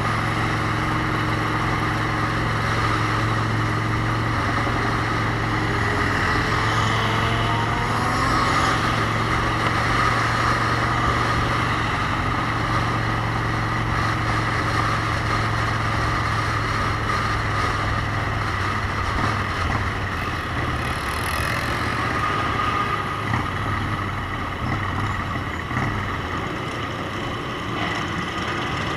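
Motorcycle under way on the road: a steady engine note over a constant rushing road and wind noise, the low engine hum fading about two-thirds of the way through.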